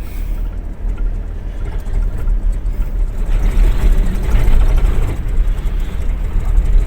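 Vehicle engine and road noise heard from inside the cab, a steady low rumble while climbing a mountain road, getting a little louder about halfway through.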